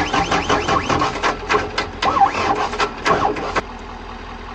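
A skid steer's diesel engine being cranked on its starter, run on a dose of starter fluid because the battery is weak. It goes as a run of uneven, rapid pulses for about three and a half seconds, then stops, with another engine idling steadily underneath.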